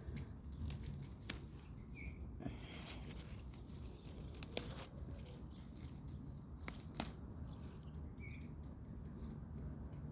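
Outdoor garden ambience: a high-pitched, rapidly pulsing chirp comes and goes, joined by a couple of short lower chirps and a few sharp clicks.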